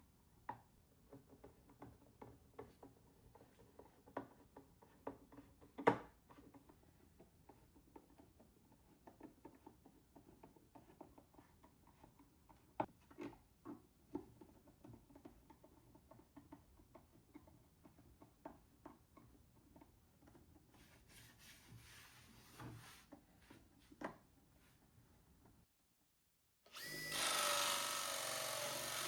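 Scattered light clicks and knocks of tool work on wood, then, after a moment of silence near the end, a steady noisy power tool starts running with a faint high whine.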